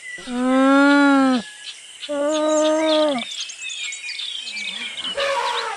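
An alpaca humming twice: two drawn-out calls of about a second each that dip in pitch as they end. A brief, rougher sound comes near the end, with birds chirping faintly behind.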